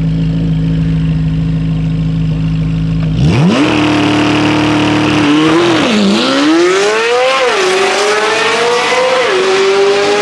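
A car at a drag strip idles for about three seconds, then launches at full throttle. The engine revs climb and drop back three times as it shifts up through the gears.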